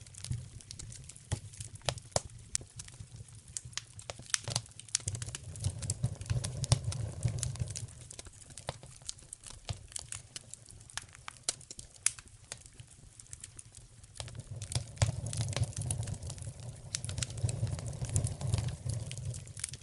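Wood fire crackling in a fireplace: dense, irregular pops and snaps over a low rumble that swells and fades a few times.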